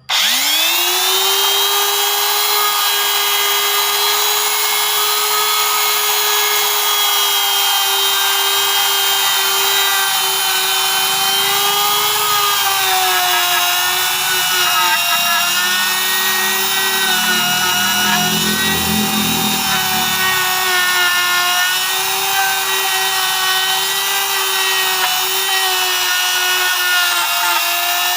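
Electric motor of a woodworking boring machine switching on and spinning up within a fraction of a second, then running at high speed with a steady high whine. A lower rumble joins for a few seconds past the middle, and the pitch sags slightly there.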